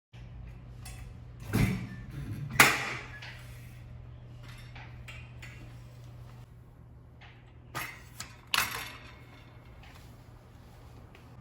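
Household items knocking and clinking as they are handled and set down on a hard surface: a few sharp knocks, the loudest about two and a half seconds in and a quick group of three near eight seconds. A steady low hum runs underneath.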